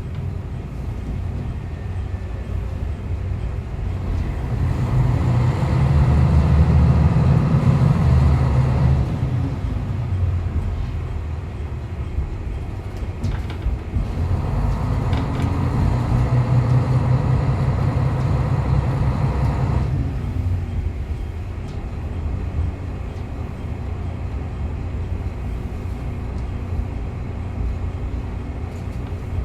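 Diesel railcar running over the rails. Its engine swells twice, for several seconds each time, once about five seconds in and again about fourteen seconds in, between steadier stretches of rolling.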